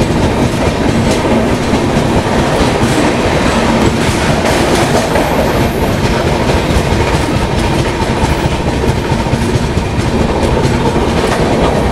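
Indian Railways passenger train coaches rolling past a station platform, wheels clattering steadily over the rail joints.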